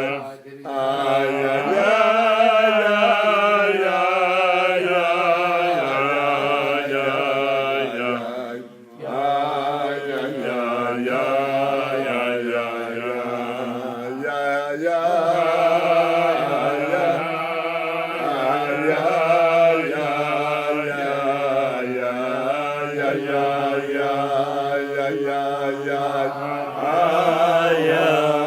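A voice singing a slow, chant-like melody with a wavering, ornamented pitch, pausing briefly about nine seconds in.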